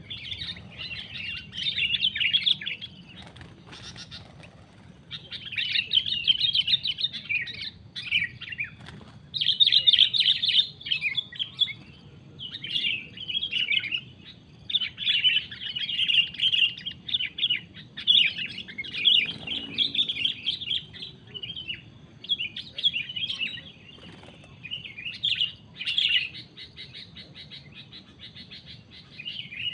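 Sooty-headed bulbul (kutilang) giving its excited 'cengkram' chatter: repeated bouts of rapid, scratchy calls, each lasting a second or two, with short pauses between.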